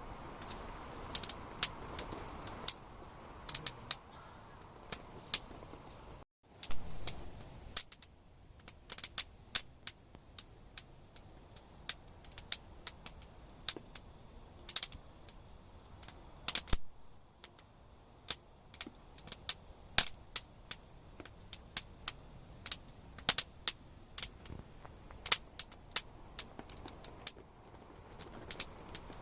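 Wood campfire burning, crackling with irregular sharp pops and snaps over a faint hiss.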